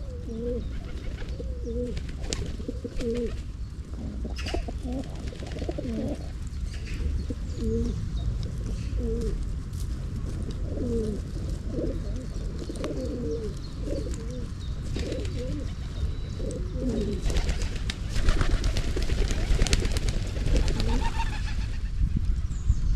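Pigeons cooing over and over, short low coos in quick succession, over a steady low rumble. Near the end comes a burst of scratchy, rustling noise.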